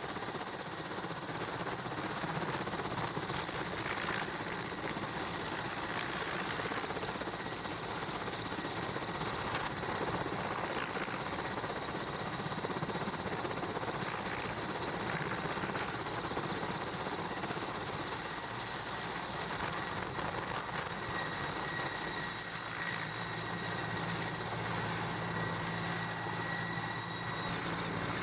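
Mi-8 helicopter running steadily, an even rotor-and-turbine noise. About three-quarters of the way through, a lower steady engine hum joins in.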